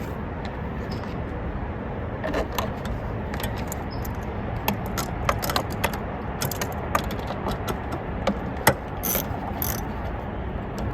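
Hand tools and small metal parts clinking and rattling as an engine bay is worked on, in irregular sharp clicks over a steady background hiss.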